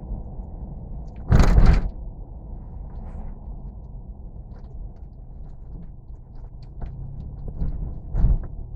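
Steady low rumble of a vehicle on the move, with a loud thump about a second and a half in and a smaller one near the end.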